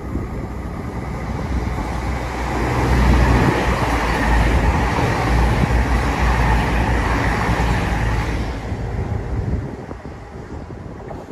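Passenger train passing at speed: rumble and rail noise swell over a few seconds, stay loud for about six seconds, then die away near the end.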